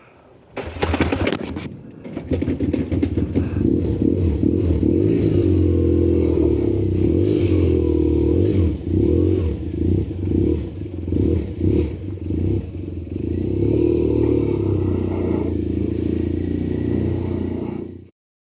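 BMW R1200GS boxer-twin engine coming to life with a sudden burst of noise under a second in, then running steadily and loudly, its revs dipping and rising several times; this is the bike running again after its flat battery. The sound cuts off suddenly near the end.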